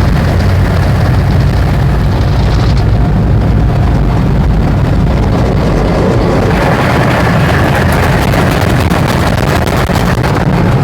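Automatic tunnel car wash heard from inside the car's cabin: a loud, steady rumble of water jets and wash machinery beating on the car. About six seconds in the spray turns hissier.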